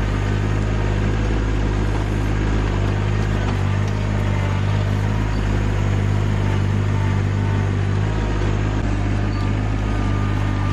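RK25 sub-compact tractor's diesel engine running steadily.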